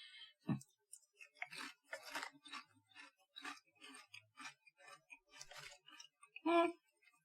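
Ume plum potato chips being chewed: a run of irregular crisp crunches for several seconds, then a short, louder vocal sound about six and a half seconds in.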